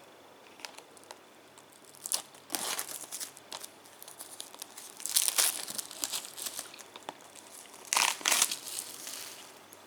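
Plastic wrapping being torn open and crumpled on a Blu-ray box set, in several bursts of crackling rustle. The loudest bursts come about five seconds in and again about eight seconds in.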